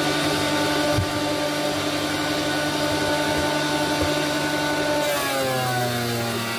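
Electric motor of a workshop machine running steadily with a strong hum. About five seconds in its pitch drops and settles lower.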